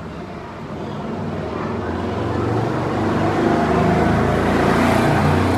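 A motor vehicle's engine, growing steadily louder over a few seconds as it approaches.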